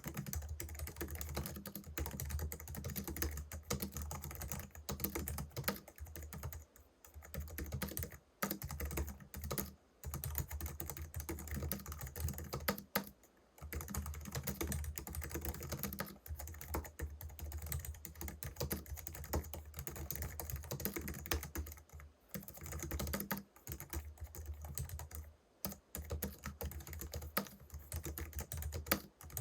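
Continuous typing on a Logitech MX Keys Mini, a low-profile scissor-switch (pantograph) wireless keyboard: fast runs of soft key clicks with a few short pauses between bursts.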